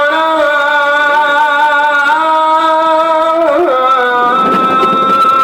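A single voice chanting long held notes in a Middle Eastern style, with an ornamented turn about three and a half seconds in. A rushing noise joins underneath from about four seconds in.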